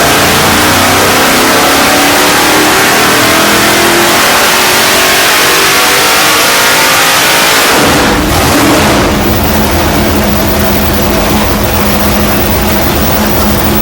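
Fuel-injected 632 cubic inch big-block Chevy V8 making a full-throttle dyno pull: the engine's note climbs steadily under load for about eight seconds, then the throttle closes and it drops back to a steady lower speed.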